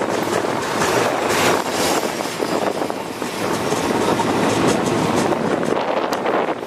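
Running noise of a train heard from on board as it crosses a long rail bridge: a steady rumble of wheels on the rails with light clicking.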